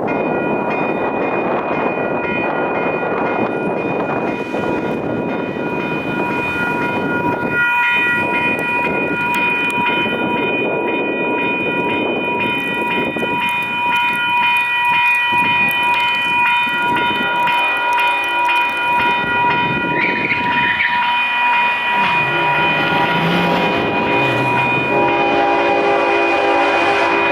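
Electronic crossing bells ringing steadily while a Union Pacific intermodal stack train rumbles through the crossing. A locomotive horn comes in late, sounding its chord from about 20 s and loudest near the end.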